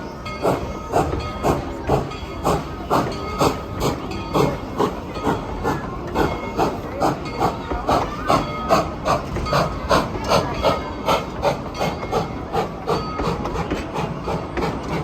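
Tweetsie Railroad #190, a narrow-gauge Baldwin 4-6-0 steam locomotive, chuffing steadily as it works, its exhaust beats coming at a bit over two a second.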